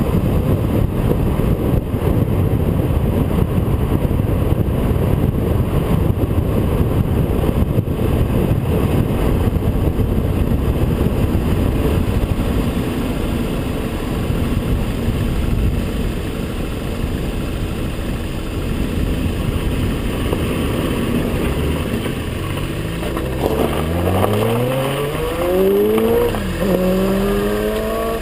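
Turbocharged 2009 Chevrolet Cobalt SS's 2.0-litre LNF Ecotec four-cylinder engine and intake heard from the front fog-light opening while driving, thick with road and wind rush. Near the end an engine revs up in several quick rising steps, as if shifting up through the gears.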